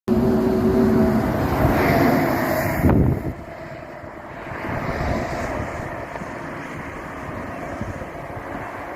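Jet airliner coming in to land: its engines give a loud rush with a few steady held tones, which drops off abruptly about three seconds in to a quieter rush that swells again for a moment around five seconds.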